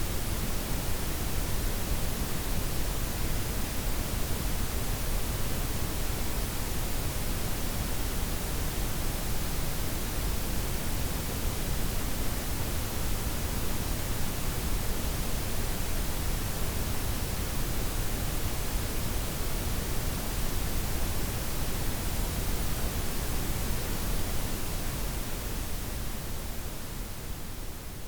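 Steady blend of white, pink and brown noise: an even hiss across all pitches, heaviest in the lows. It begins to fade out near the end.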